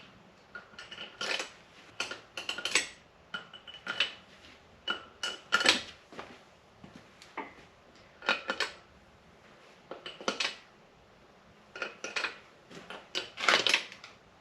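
Steel cylinder-head bolts and washers clinking and rattling as they are handled and set into a cylinder head on a 6.0 LS engine. The clinks come at irregular times, and some ring briefly.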